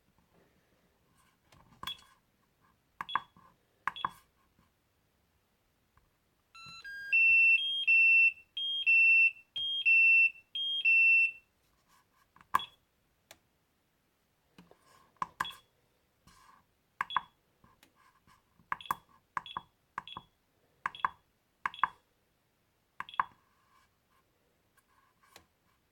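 A hobby LiPo battery charger beeping. Its buttons are pressed with short key beeps, then it sounds a warning tune: a quick rising run of notes followed by loud, high beeps that alternate between two pitches for about five seconds. This is typical of the charger's error alarm for an invalid cell voltage. More single button-press beeps follow.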